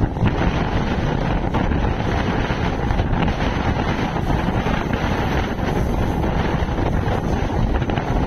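Indian Railways EMU suburban local train running on the line, heard on board: a steady rumble and rush of wheels on rail, with wind buffeting the microphone.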